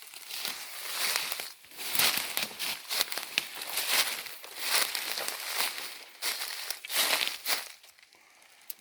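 Rustling and crackling of dry leaf litter and brush, with many short sharp crackles, as someone moves through it. The sound stops about three-quarters of the way through.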